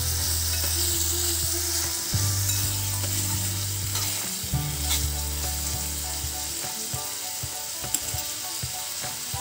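Marinated vegetables in masala sizzling steadily in oil in a miniature pan, with a low hum that stops about two-thirds of the way through. Short clicks of the stirring spoon against the pan come near the end.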